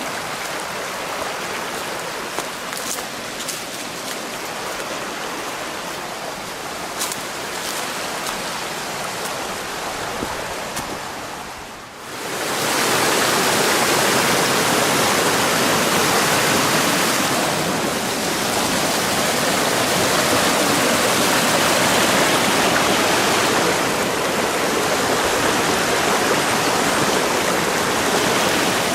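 Rushing water of a mountain stream, a steady hiss. About twelve seconds in it jumps suddenly much louder and fuller, as if right beside the water, with a few faint clicks in the quieter part before.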